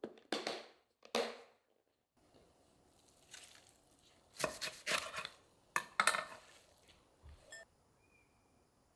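A kitchen knife cutting through crisp vegetables on a cutting board, in separate crunchy cuts: two near the start, then a quicker run of cuts around the middle.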